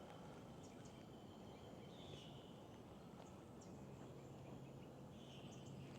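Near silence: faint outdoor ambience, with two faint short high calls and a low steady hum that starts a little past halfway.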